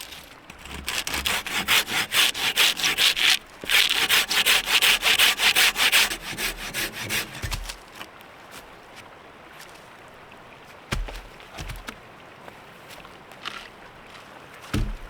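Hand saw cutting a firewood log in fast back-and-forth strokes, in two runs with a short pause about three and a half seconds in. The sawing stops about seven seconds in, and a few dull thumps follow.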